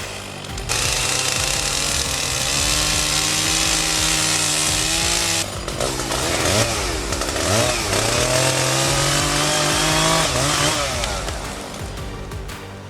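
Chainsaw running, its engine pitch rising and falling as it is revved, with a loud hiss from about one to five seconds in, under background music.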